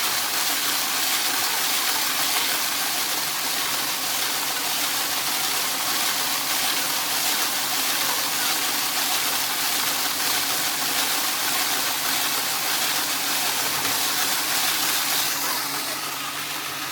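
A steady, loud rushing hiss over a faint low machine hum, easing slightly near the end.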